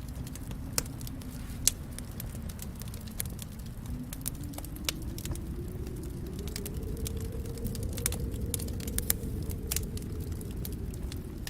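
Wood fire in a fireplace crackling: frequent sharp pops and snaps over a steady low rumble of the flames, which swells a little in the second half.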